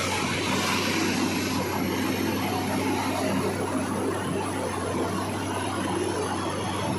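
Machinery running steadily: a constant low hum under an even rushing noise, with no knocks or changes.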